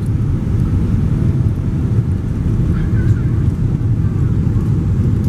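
A passenger plane's steady low rumble during landing, with faint voices about three seconds in.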